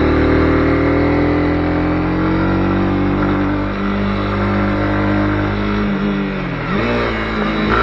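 Honda CB250R's single-cylinder four-stroke engine running under way, its pitch sinking slowly, dipping about six and a half seconds in and then rising sharply as the throttle comes back on near the end.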